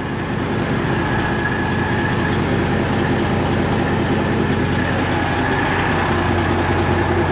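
Semi truck's diesel engine idling steadily while parked.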